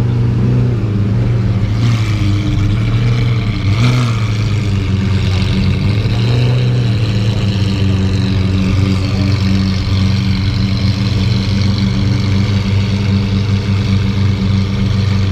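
Lamborghini Aventador SV V12 engines idling steadily at close range.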